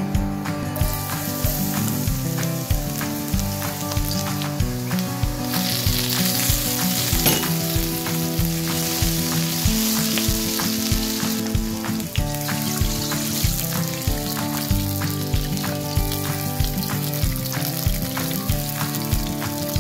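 Minced aromatics sizzling in hot oil in a wok while being stirred with a spatula; the sizzle starts about a second in and gets louder from about five seconds in. Background music with a steady beat plays throughout.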